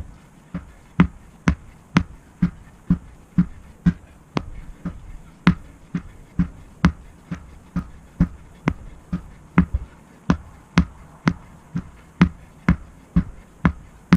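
A sledgehammer striking a tractor tire in a steady rhythm, about two dull thumping blows a second, each with a sharp slap.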